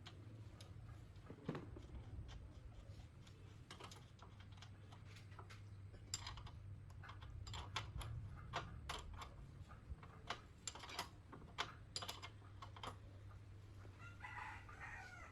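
Scattered light clicks and taps over a steady low hum, growing more frequent about halfway through, with a brief wavering higher sound near the end.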